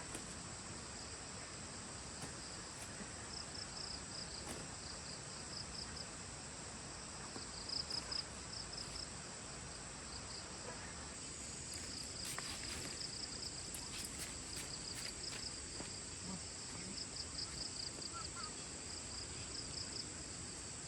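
Insects chirping: a steady high drone with a second, pulsing trill that comes in runs and fades again, a few faint ticks partway through.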